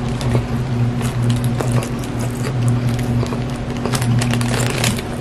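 Close-up chewing of a mouthful of breaded fried chicken sandwich: irregular wet clicks and crackles from the mouth. A steady low hum runs underneath.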